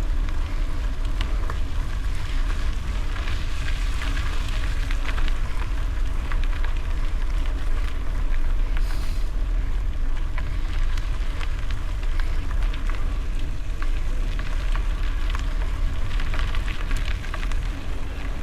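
Bicycle tyres rolling over gravel, a steady crackle of small ticks, under a heavy low rumble of wind on the microphone.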